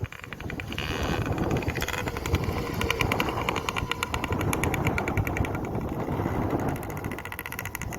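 Dirt bike engine running, its exhaust giving a rapid, even train of pops from about two seconds in, over a low rumble.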